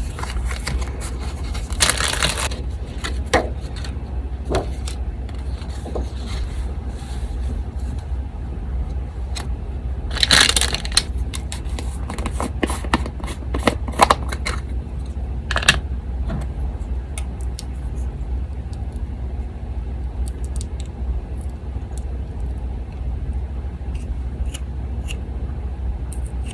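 Paper being handled, rubbed and shuffled on a desk: soft scrapes and rustles with a few louder rustles and small clicks, over the steady low hum of an electric fan.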